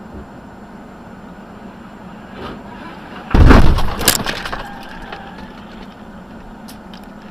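Steady road noise, then about three seconds in a loud vehicle collision: several sharp impacts with breaking over about a second, dying away, followed by a few small clicks.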